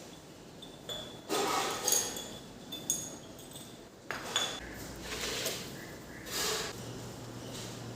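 Kitchen utensils and dishes being handled: a few ringing clinks of metal or glass, with scraping and rustling between them. A faint steady low hum starts near the end.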